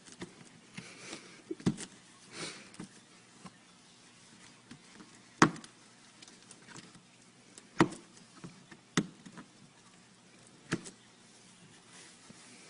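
A few irregular knocks and thumps several seconds apart, the loudest about five and a half seconds in.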